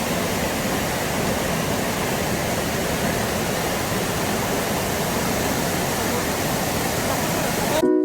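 Steady rushing of water, an even unbroken noise that cuts off suddenly near the end.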